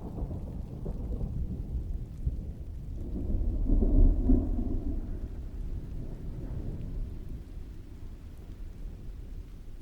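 Distant thunder rolling under steady heavy rain: a low rumble builds a few seconds in, peaks about halfway through and slowly fades away.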